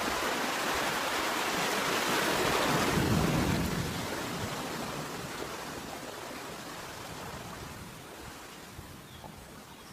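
Ocean surf: a wave breaking and washing up the beach, swelling to a peak a few seconds in and then slowly fading, with some wind noise.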